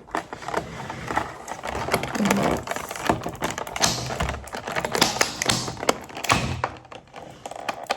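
Groceries and their packaging being handled, including an egg carton being checked: an irregular run of taps, clicks and rustles.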